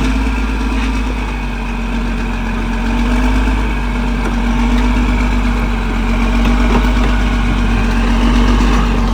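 Diesel engine of a CAT D6R XL bulldozer running at an even, steady speed, a constant low hum with no revving.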